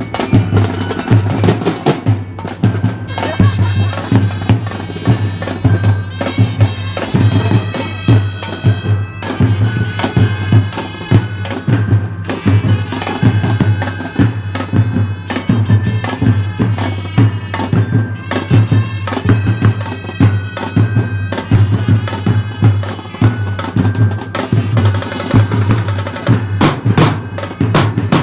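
Drum and bugle corps playing: marching drums keep up a steady rhythm under sustained brass and bugle melody lines over a constant low bass.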